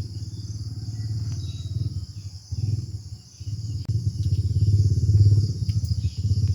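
Insects chirring steadily over a low, pulsing rumble that dips briefly partway through and grows louder in the second half.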